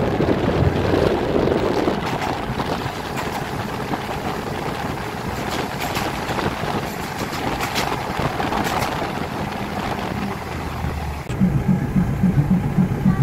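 Passenger train running along the track, heard from an open carriage window: a steady rumble and rattle with scattered sharp clicks. About eleven seconds in, a louder, pulsing low throb sets in.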